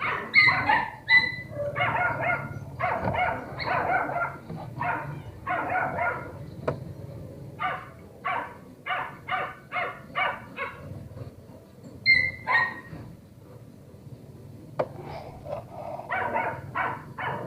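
A dog barking repeatedly in quick runs of short barks, with a lull about two-thirds of the way through before it starts again.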